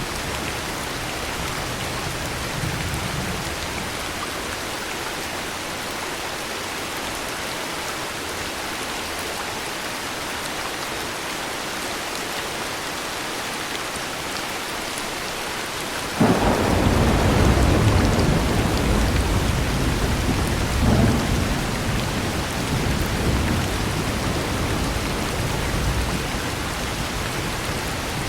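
Steady heavy rain. About sixteen seconds in, a sudden loud thunderclap breaks in and rumbles on for several seconds, swells again a few seconds later, then fades back under the rain.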